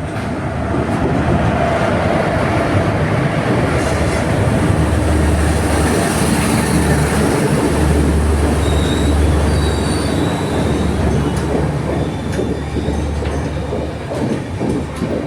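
A train running past close by: a loud, steady rumble of wheels on rail, with short high-pitched wheel squeals from about nine seconds in and sharp rail clicks near the end.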